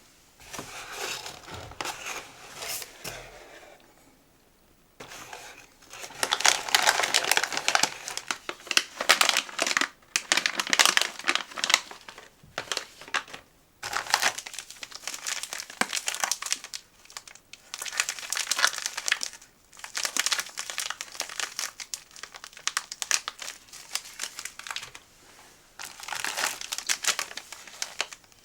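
Plastic snack packaging crinkling as it is handled and unwrapped, in bursts of a few seconds with short pauses between.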